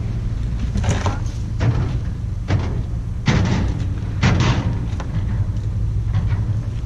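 A run of heavy thuds and knocks, four or five of them a second or so apart, the loudest a little past the middle, over a steady low engine rumble.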